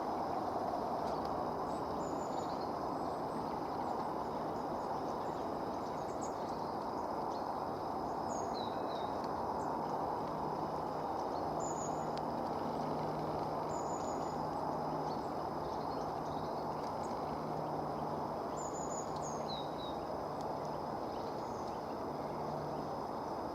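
Long-tailed tits giving short, thin, very high calls, scattered and sometimes in quick little runs of two or three notes. They sit over a steady background noise and a faint low hum, which are the loudest part of the sound.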